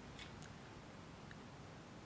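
Near silence: faint room tone with a couple of soft ticks near the start.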